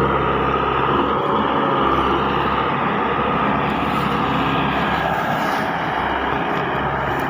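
Tractor engine running steadily under a heavy load, with a low, even engine note beneath a broad mechanical noise.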